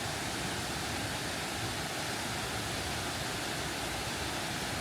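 Waterfall rushing steadily, a constant even wash of water noise.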